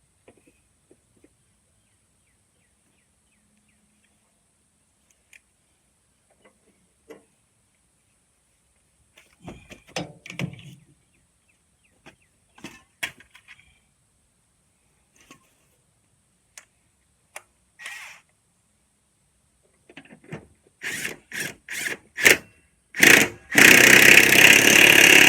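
A power tool fired in several short bursts, then run steadily for about two seconds near the end, the loudest sound here. Before that, scattered light clicks and knocks of parts and tools being handled.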